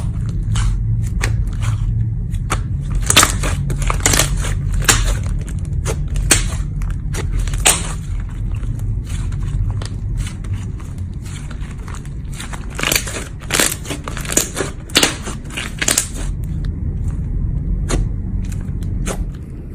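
Slime being squished and pressed, giving irregular crackling pops and clicks over a steady low rumble.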